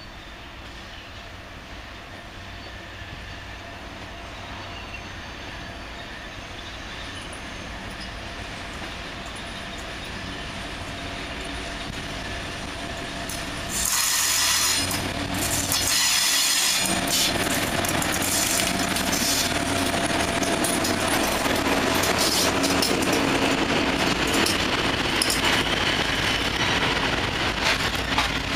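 M62 diesel-electric locomotive, with its two-stroke V12 diesel engine running, approaching and growing steadily louder. The sound jumps abruptly about halfway through as it passes close by, then gives way to loaded cement hopper wagons rolling past with rapid wheel clatter.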